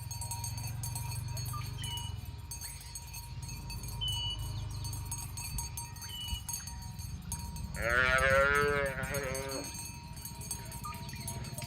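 A cow moos once, a wavering call of about two seconds that starts about eight seconds in.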